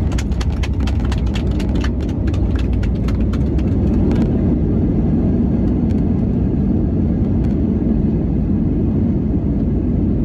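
Steady low rumble from inside a moving vehicle, with a run of small clicks and rattles over the first four seconds that then stop.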